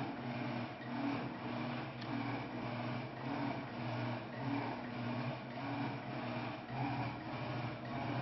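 Electrolux LTS 12 kg top-loading washing machine running a wash cycle: a low motor hum that swells and fades about once a second over the sloshing of the load.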